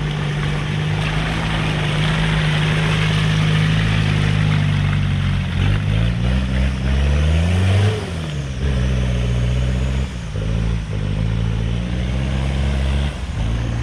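4x4 off-roader's engine running on a muddy track, a steady low note that revs up for about two seconds near the middle and then drops back, running on as the vehicle pulls away.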